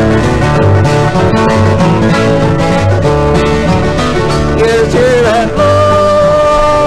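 Bluegrass instrumental break: guitar and banjo picking over steady bass notes. About two-thirds through, a lead instrument slides up in pitch and holds one long, steady note.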